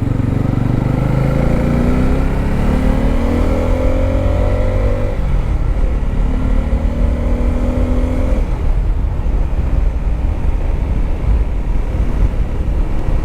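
Motorcycle engine running under way with wind noise on the microphone. The engine note climbs twice as the bike accelerates, about a second in and again past the middle.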